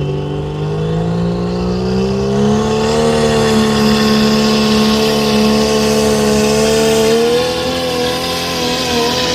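Pulling truck's engine at full throttle, dragging the weight sled. The revs climb over the first few seconds, hold high and steady, then waver near the end.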